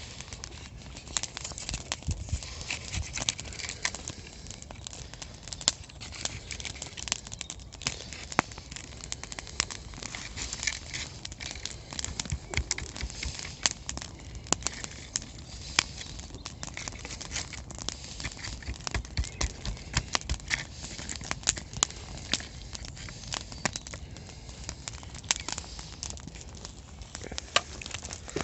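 Dense, irregular crackling and rustling of dry twigs and brush, with many sharp snaps scattered throughout.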